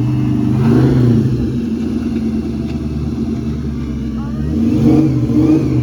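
Supercharged 4.6-litre V8 of a 2003 Ford Mustang SVT Cobra running, its pitch rising and falling.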